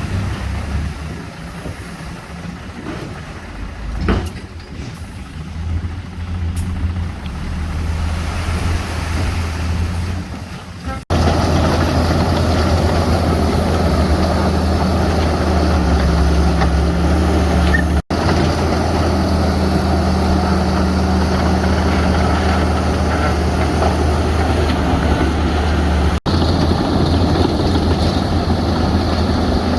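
Heavy diesel engines of earthmoving machines, bulldozers and dump trucks, running steadily with a deep low hum. The first part is quieter, with a single knock about four seconds in. After about eleven seconds it becomes louder and fuller, broken by three brief dropouts.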